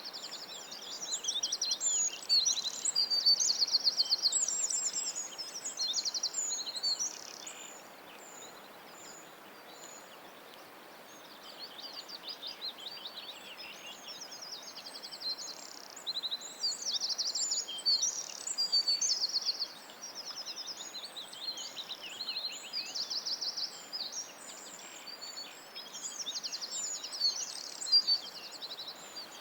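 Birds singing: rapid, high-pitched trills and chirps in repeated phrases over a steady hiss, quieter for a few seconds about a third of the way in.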